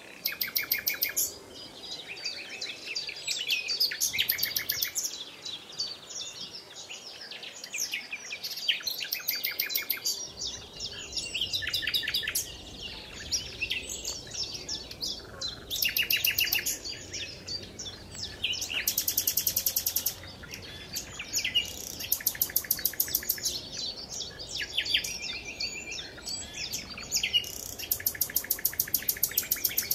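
Songbirds singing: a busy chorus of chirps and fast trills that come again and again.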